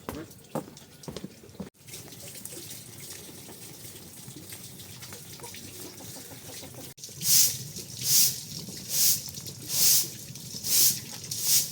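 Water running from a tap, then about six rhythmic swishing splashes less than a second apart.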